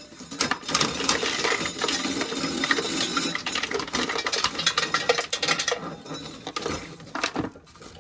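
Corn being shelled: a dense, continuous rattle of loose kernels and cob pieces clattering into metal containers, thinning out near the end. A faint steady hum runs underneath.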